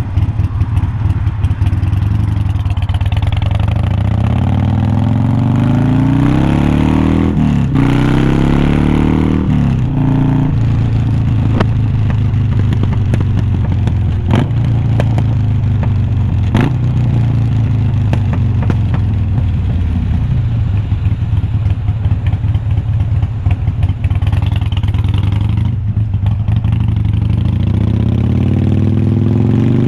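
2020 Harley-Davidson Iron 1200's air-cooled V-twin through unbranded glass-pack-style slip-on mufflers, accelerating with the pitch climbing, dropping sharply at a gear change about eight seconds in and climbing again, then holding a steady cruise. Two sharp clicks sound midway, and the engine revs up again near the end.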